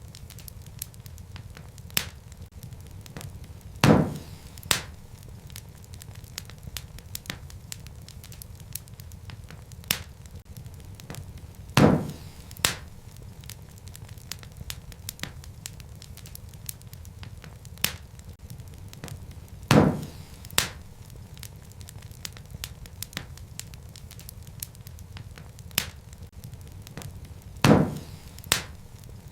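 Wood fire crackling in a fireplace: a steady low rumble of flames with small snaps throughout, and a loud pop followed by a second one a moment later, repeating about every eight seconds.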